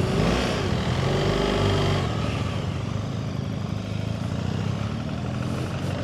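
Motorcycle engine running steadily, its pitch shifting a little.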